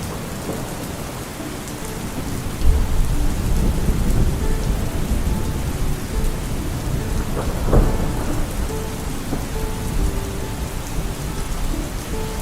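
Steady rain with a low rumble of thunder that comes in about three seconds in and swells near the middle.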